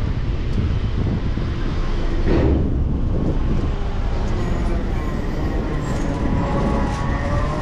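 City street traffic heard from a moving bicycle: wind rumble on the microphone, a vehicle passing about two and a half seconds in, then a motor whine that creeps up in pitch over the last few seconds.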